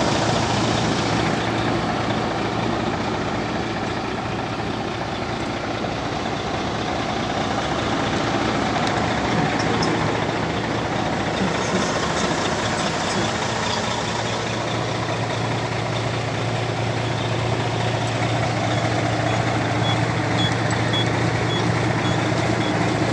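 Large truck engine running steadily with a low hum. Near the end, a reversing alarm beeps in a regular series.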